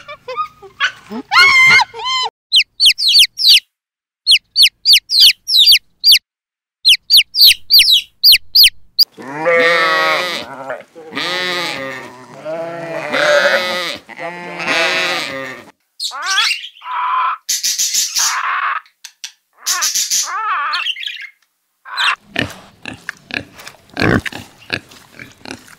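A run of animal calls: high squeaky calls from Barbary macaques, then a stretch of rapid high chirps, then sheep bleating in four long calls. Near the end, a pig grunting in short bursts.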